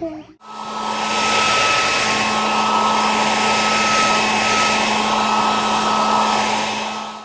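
Blow dryer running steadily with a thin whine over its rushing air, starting about half a second in.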